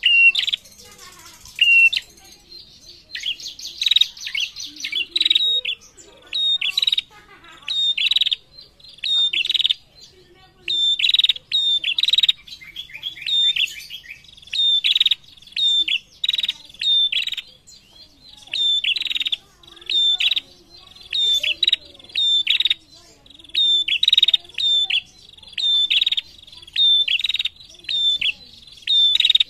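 Caged female prenjak calling vigorously: a long run of sharp, high chirps, repeated about once a second, often in quick pairs.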